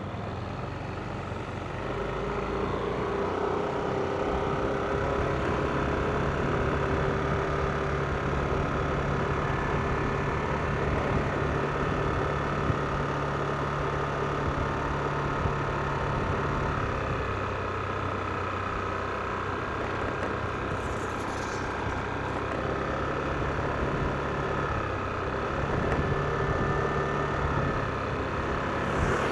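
Yamaha NMAX scooter's single-cylinder engine running at a steady cruise with road and wind noise, picking up a little about two seconds in.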